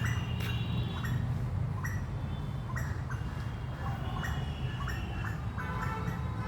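Birds chirping in short, sharp calls about twice a second over a steady low rumble.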